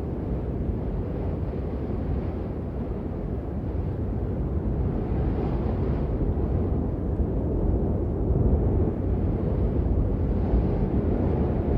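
Steady rainfall: an even, deep noise with little high hiss, swelling slightly in the middle.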